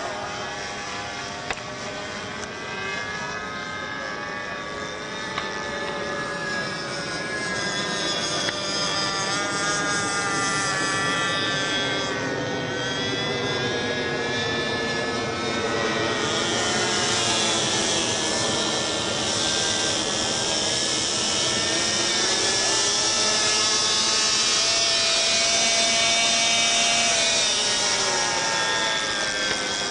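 A model airplane's small engine buzzing in flight, its pitch rising and falling as the plane passes and turns. It gets louder in the second half.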